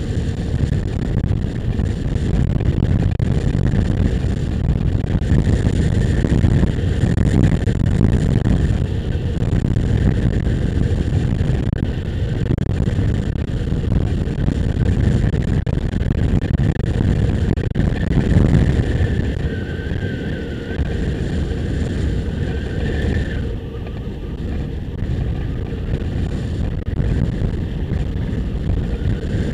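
Motorcycle riding along a road: heavy wind rush on the microphone over the steady running of the engine.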